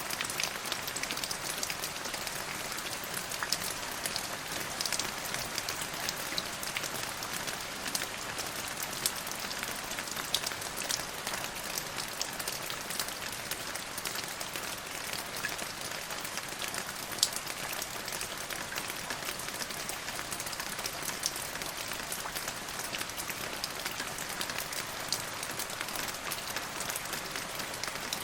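Steady rain falling on a surface, an even hiss with many close drop impacts and an occasional louder single drip.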